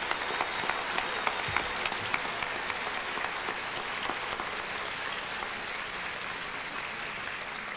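Audience applauding steadily: many hands clapping at once in a dense, even patter that eases slightly near the end.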